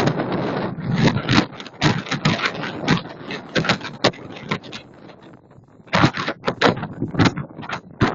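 Strong wind buffeting the microphone in irregular gusts, a rough rumbling and crackling that surges and drops every fraction of a second.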